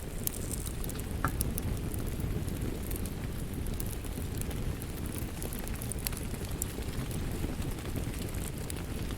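Wood fire crackling, with scattered sharp pops, over a steady rumble of rain.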